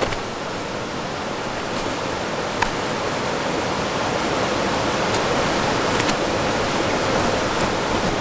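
Steady rushing of river water, even and continuous, with a few light clicks scattered over it.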